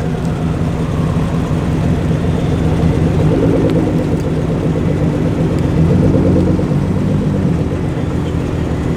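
Modified car engine running steadily, a deep, even exhaust rumble.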